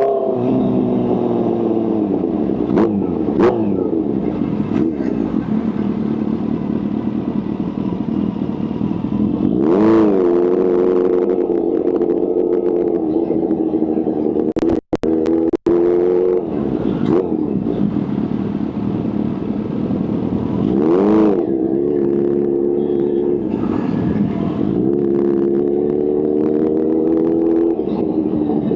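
Kawasaki H2's supercharged inline-four engine running, its pitch rising and falling with the throttle, with two sharp blips of revs about a third and two-thirds of the way through. The sound cuts out twice for an instant about halfway.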